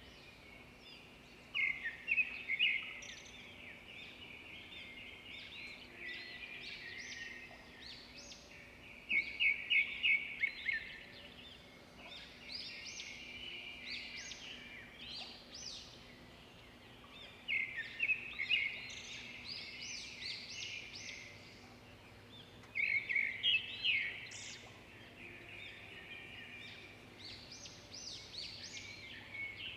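Zebra finches chirping and singing: soft continuous chatter, with louder bursts of quick repeated notes about every seven seconds.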